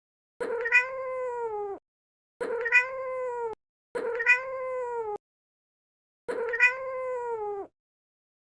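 A domestic cat meowing four times, each meow a drawn-out call of just over a second that dips in pitch at its end; the four calls sound identical, the same meow repeated.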